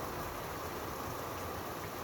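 Steady rain falling at night, an even hiss.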